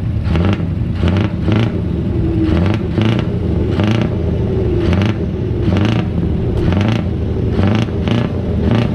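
Scania V8 truck engine running loudly, with frequent irregular sharp cracks over its steady low sound.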